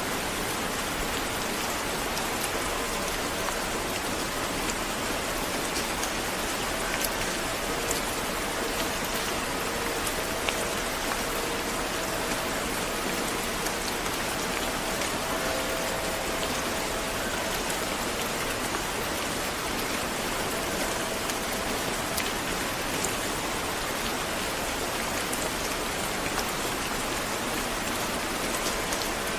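Steady rain falling on a surface, an even patter with scattered sharper drop ticks.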